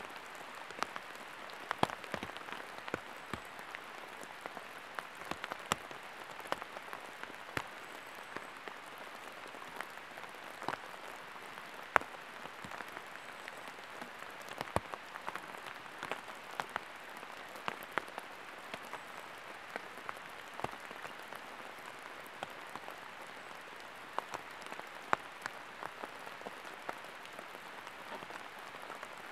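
Steady rain, an even hiss with irregular sharp drop hits.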